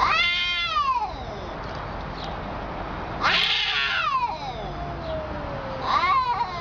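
A cat yowling: three long wavering calls, the first at the start, the second about three seconds in with a long falling tail, the third shorter near the end.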